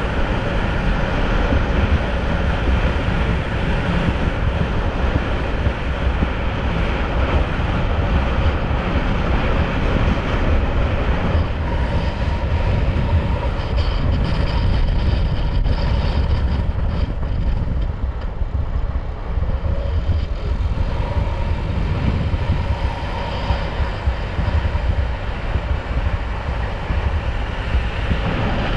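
Motorcycle riding at road speed: engine running steadily under a heavy, continuous rumble of wind on the microphone.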